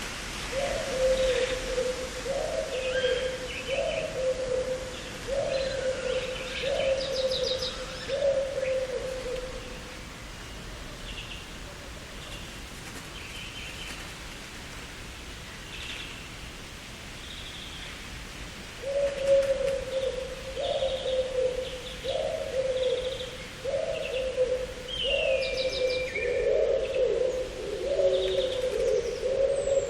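Garden birds singing: one bird repeats a low cooing note about every second and a half in two long series, while other birds add scattered higher chirps and trills. Late on, a clear falling whistle stands out, and the low calls overlap as if two birds are calling.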